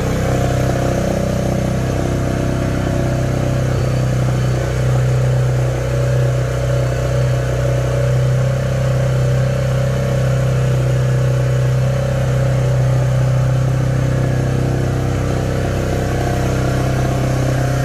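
New Yamaha YBR125G's 125 cc single-cylinder four-stroke engine idling steadily on its first start.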